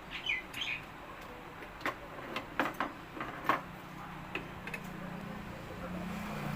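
Scattered sharp clicks and knocks of a tool on metal as a bolt is undone on a ceiling fan. A low steady hum swells in near the end.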